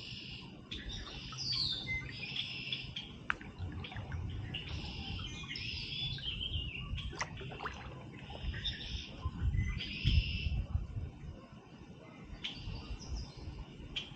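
Several songbirds singing in repeated short phrases, over a low rumbling noise that swells about ten seconds in.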